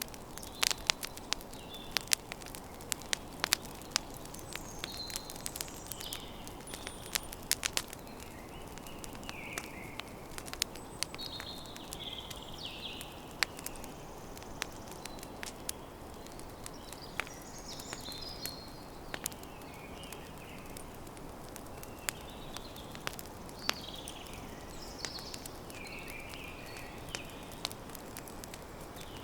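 Campfire crackling, with sharp pops and snaps that come thickest in the first several seconds, over a steady low hiss. Small birds chirp and twitter on and off throughout.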